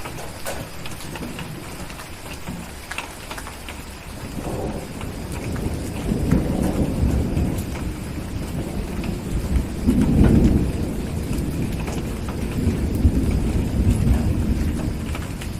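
Steady rain with a long roll of low thunder that builds from about four seconds in, is loudest around ten seconds and keeps rumbling to the end.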